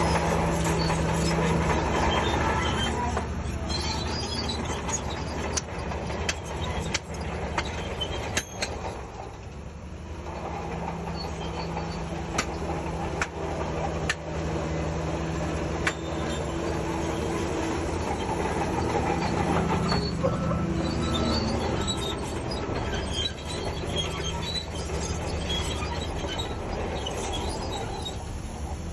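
Shantui DH17C3 crawler bulldozer working, its diesel engine running under changing load, with track clanking and squeaking and many short metallic knocks. The engine eases off about three seconds in and again around ten seconds, then picks back up.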